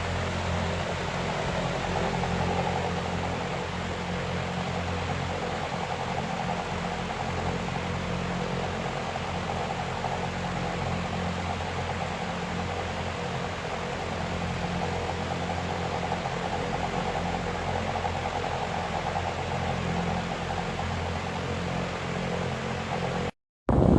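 Electric fan running steadily: a whir of moving air over a low motor hum. Near the end the sound cuts out for a moment, and a louder rush of air follows.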